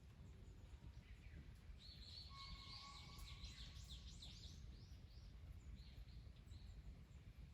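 Faint songbird singing a fast run of short high notes about two seconds in, lasting roughly three seconds with a few more notes after, over a low steady rumble.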